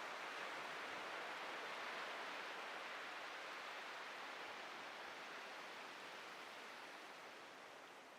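Ocean surf washing up a beach: a steady hiss of foaming water that slowly fades as the wash recedes.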